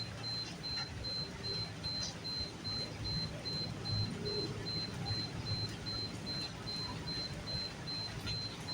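Night rain ambience: a light hiss of rain with scattered small drip clicks over an uneven low rumble, and a thin high tone pulsing evenly about three times a second.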